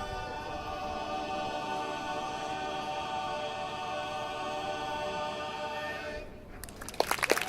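Barbershop group singing a cappella in four-part harmony, holding a long final chord that dies away about six seconds in. Applause breaks out just before the end.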